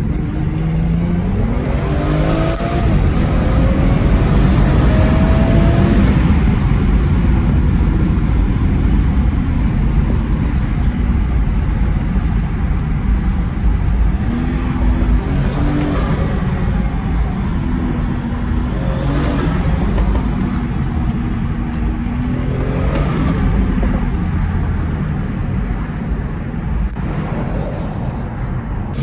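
BMW 440i's tuned B58 turbocharged inline-six pulling hard with rising revs, then running steadier, with turbo whooshes and huffs through an open cone intake several times when the throttle is lifted.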